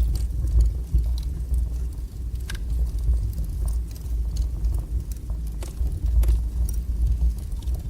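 Wood fire burning in a fireplace: a steady low rumble from the flames, with scattered sharp crackles.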